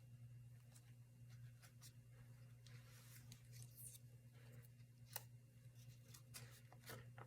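Faint handling of paper and craft materials, soft rustles and small clicks and taps, over a steady low hum.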